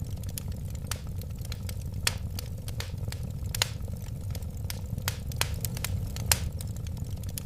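Wood fire crackling: irregular sharp pops and snaps of burning wood over a steady low rumble of the flames, with a few louder pops.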